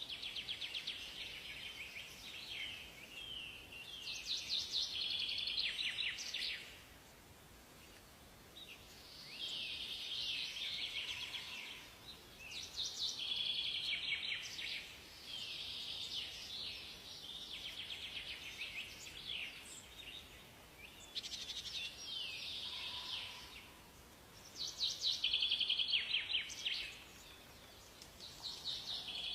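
Songbirds singing: phrases of rapid high notes, each a few seconds long, following one another with short pauses, over a faint steady hiss.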